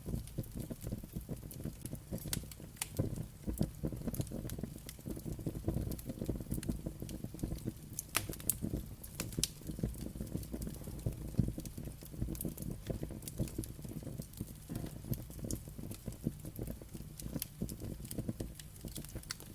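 Wood fire burning with a low steady rumble and irregular crackles and pops, a couple of louder snaps midway.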